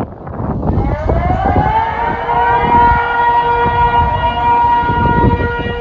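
Civil-defence warning siren sounding a tsunami alert. Its pitch winds up over about the first two seconds and then holds a steady wail, with low rumbling noise underneath.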